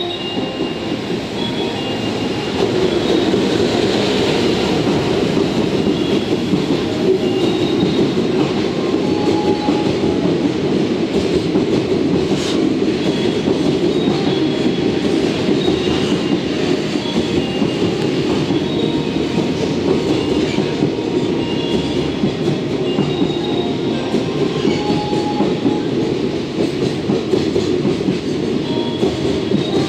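Freight train of container wagons, hauled by an electric locomotive, running through the station without stopping. The steady rolling noise of wheels on rail swells over the first few seconds as the train comes alongside, with short high wheel squeals recurring.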